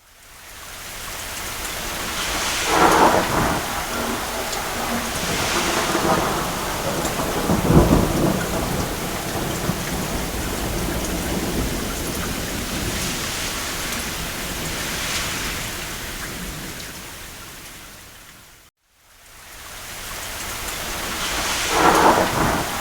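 Steady rain with rolls of distant thunder. Several rumbles come through, the deepest and loudest about a third of the way in. Near the end the sound fades briefly to silence and swells back.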